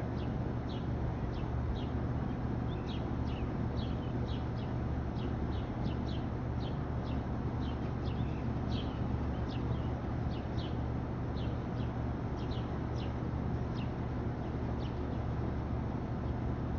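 Bird chirping repeatedly in short, high notes, about two or three a second, over a steady low hum.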